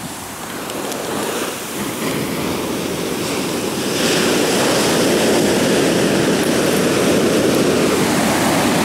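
Ocean surf washing up the shore, the rush of water growing louder and swelling into a loud, steady rush about four seconds in.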